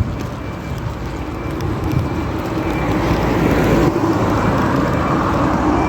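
Street traffic: a car's engine and tyre noise going past, getting louder partway through.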